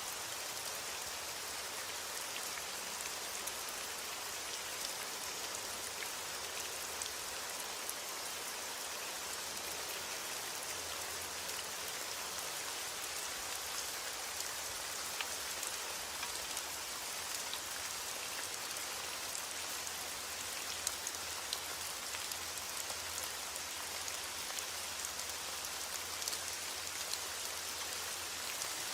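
Steady heavy rain falling, an even hiss with many small drops ticking on a surface.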